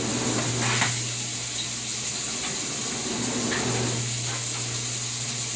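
Steady hiss over a low hum, with a faint knock or two in the first second.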